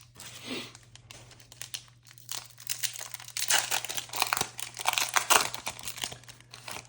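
Trading-card pack foil wrapper being torn open and crinkled by hand, in irregular crackling bursts that grow busiest in the second half.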